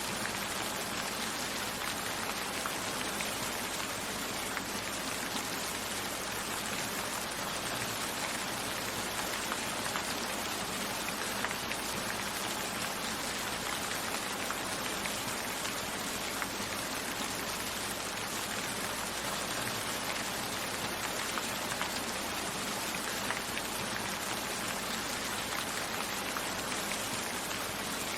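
Steady, even rain, a constant hiss of rainfall with scattered faint drop ticks.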